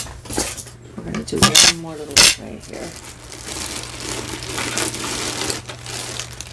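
Costume jewelry clinking and clattering as pieces are handled and dropped into a box, with a few sharp clicks in the first couple of seconds, then softer rustling handling noise.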